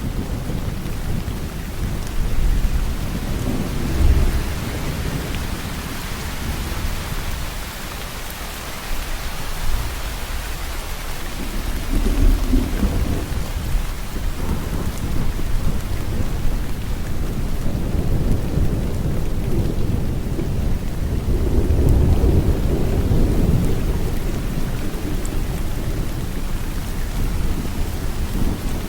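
Steady rain falling, with low rolling thunder that swells several times: briefly about four seconds in, again around twelve seconds, and longest in the last third.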